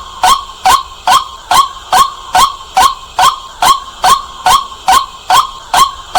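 White-breasted waterhen calling a loud, sharp 'kwak' over and over, in an even rhythm of about two and a half calls a second.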